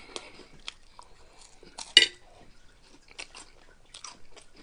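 Close-up eating sounds of a person chewing Flaming Hot Cheetos nachos: scattered small crunches and clicks, with one loud sharp crack about two seconds in.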